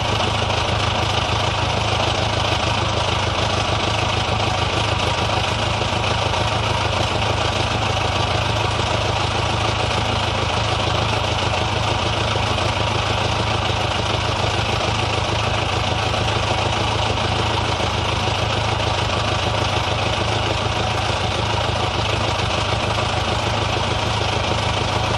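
Old car engine idling steadily at an even pitch.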